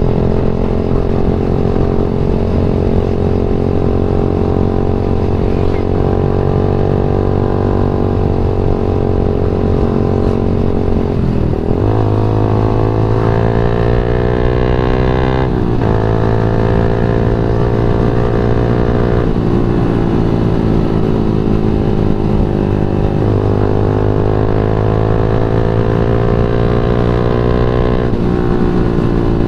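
Yamaha MX King 150 single-cylinder engine running under way at riding speed. Its pitch dips and then climbs steadily about 12 seconds in, drops again with a gear change around 16 seconds, and shifts a few more times later as the rider changes throttle and gears.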